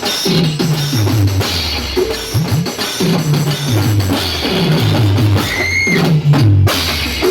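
Loud music with a heavy, repeating bass line and drums, played through a festival DJ sound system. A brief high whistle-like tone sounds about six seconds in.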